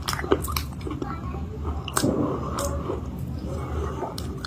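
Close-up chewing of a baked chalk-paste cake: sharp crunches every second or so between soft, squishy chewing.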